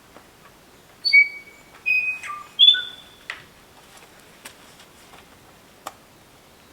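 A bird calling close by: three loud, clear whistled notes in quick succession about a second in, some sliding down in pitch, followed by a few scattered clicks.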